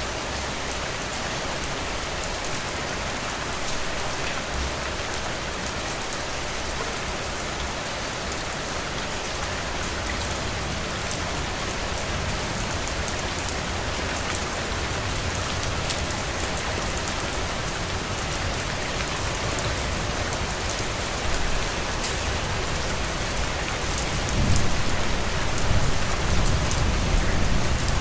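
Heavy rain falling steadily. A low rumble swells under it near the end and makes the sound louder.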